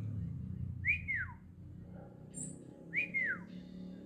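A bird gives two loud whistled calls about two seconds apart, each rising briefly and then sliding down in pitch.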